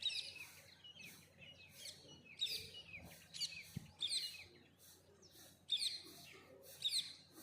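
Songbirds chirping: short, bright, quickly sweeping chirps repeated in an irregular series, roughly one or two a second.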